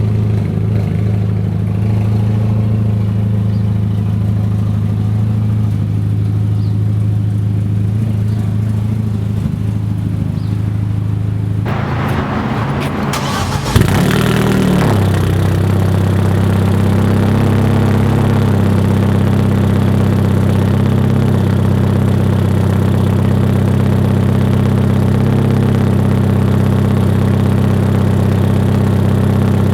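Hyundai Genesis Coupe 2.0T's turbocharged four-cylinder idling through a catless 3-inch single-exit exhaust, a steady low drone. Near the middle the idle breaks up for a few seconds with a sharp click, then settles back into a steady idle, a little louder.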